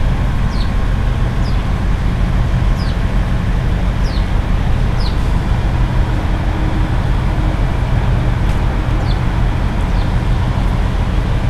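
Steady rumble of road traffic and running engines, with a small bird giving short, high, falling chirps about once a second.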